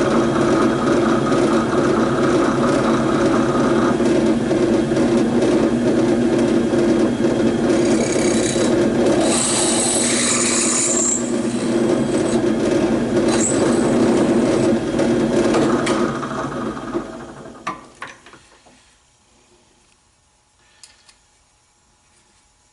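Electric drill running steadily with a 3/16-inch bit, boring out a hole in a battery tray to the size an M6 tap will thread into. A brief higher-pitched cutting sound comes about 9 to 11 seconds in. The drill winds down about 17 seconds in, followed by a few light clicks.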